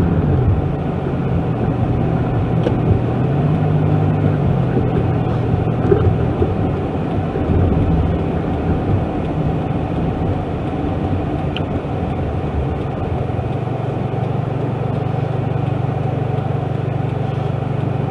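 1999 Toyota Camry's engine running while driving, heard from inside the cabin. Its note rises and falls a couple of times, then holds steady over the last few seconds. The owner puts the noise down to a bad cylinder.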